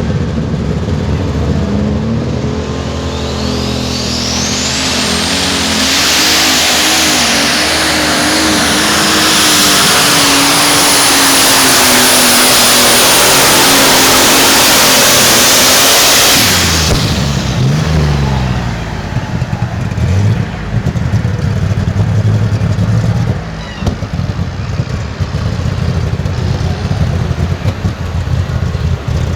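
Turbocharged engine of a pulling truck or tractor at full power during a pull, with a turbo whine that climbs and then holds as a high steady whistle. About sixteen seconds in the engine cuts back sharply, then runs low with short throttle blips.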